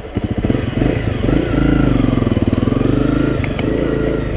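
Honda CRF250L's single-cylinder four-stroke engine running and revving as the dirt bike pulls away, its note rising about a second in and then holding steady.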